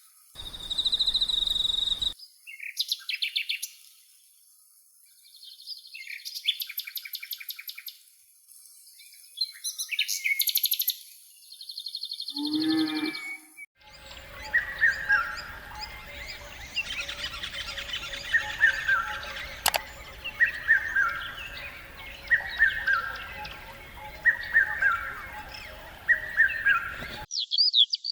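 Rainforest birds calling: separate fast trilled and buzzy calls with short pauses between them. About halfway the sound changes abruptly to a dense chorus in which one short falling call repeats about every second and a half.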